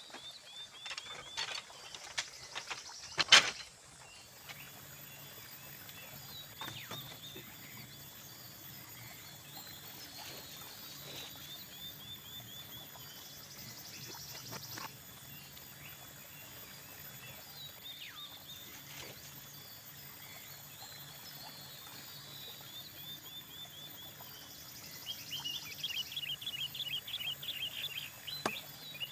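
Forest ambience with birds calling in short repeated chirping trills, a burst of them louder near the end, over a steady high thin insect drone. A few sharp knocks sound in the first few seconds, the loudest about three seconds in.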